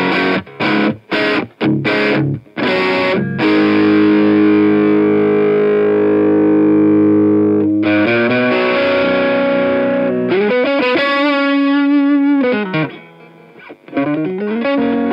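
Overdriven electric guitar: a single-coil Stratocaster with Lace Sensor pickups through a Bogner Ecstasy Red overdrive pedal into an amp. It opens with a run of short, choked chord stabs, then lets a chord ring for about four seconds. After that it holds a note with wide vibrato that bends down before a brief pause.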